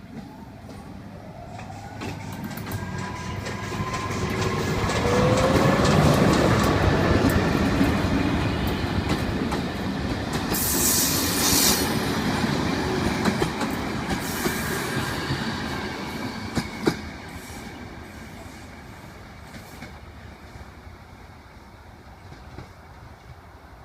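A train passing on the rails: it grows louder over the first several seconds, runs past with wheels clicking over the track and squealing thinly, then fades away.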